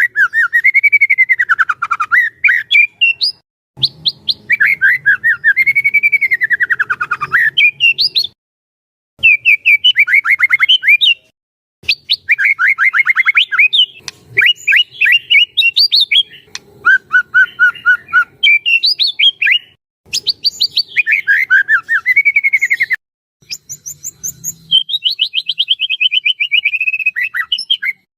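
White-rumped shama (murai batu) singing: long phrases of rapid repeated whistled notes that sweep up and down in pitch, broken by short pauses every few seconds.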